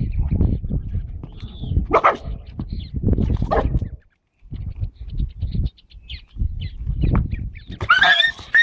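A dog barking and a donkey calling, over a low rumbling noise, with a few short calls standing out. The sound cuts out briefly about four seconds in.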